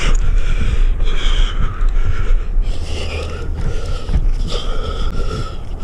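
A tree climber breathing hard from the exertion of climbing, in repeated loud breaths. A low rumble runs underneath.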